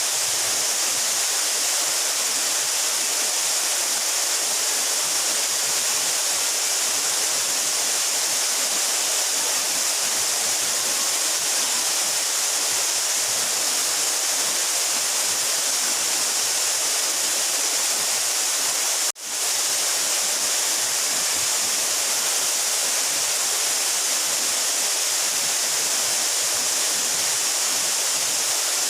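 Steady rush of a 12-metre mountain waterfall. It cuts out for an instant about two-thirds of the way through, then resumes.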